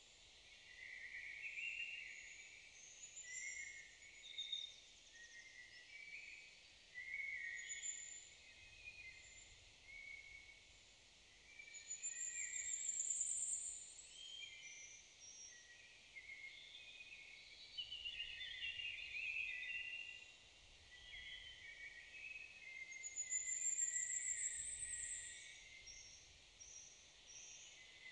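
Several songbirds singing and calling with short, varied high notes, with a high rising trill twice, around the middle and near the end.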